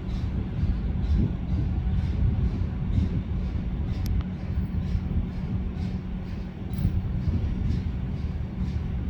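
A train rolling past: a steady low rumble with a constant hum and a regular light clicking.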